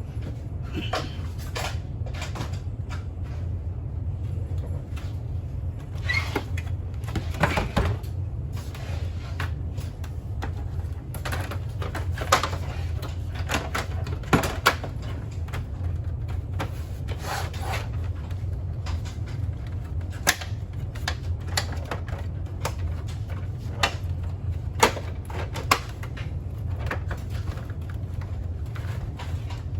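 Scattered clicks, taps and knocks of hard parts and tools being handled, at irregular intervals, over a steady low hum.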